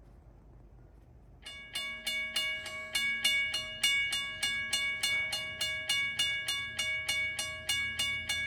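Railroad crossing bell starting up about a second and a half in and ringing in rapid, even strikes, about four a second, each leaving a steady ringing tone. It is not a loud bell.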